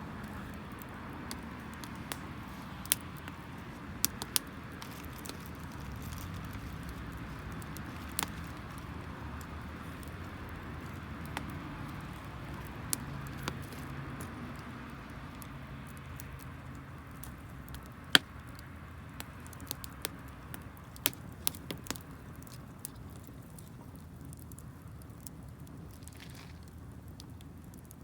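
Wood campfire burning damp firewood: a steady low rush of flame with irregular sharp crackles and pops, the loudest about two-thirds of the way through.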